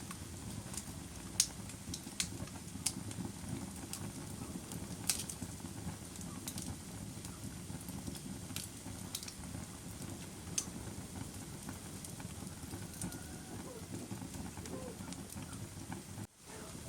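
Wood fire crackling: irregular sharp pops and snaps over a steady low rumble of burning. The sound cuts out briefly near the end.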